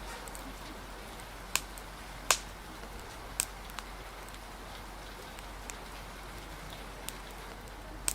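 Steady rain hiss with a wood fire crackling: scattered sharp pops, about seven of them, the loudest a little over two seconds in.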